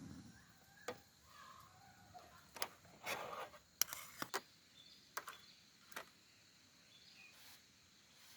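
A scattered series of short, sharp clicks and knocks, several in a quick cluster around the middle, then a few more before falling quiet.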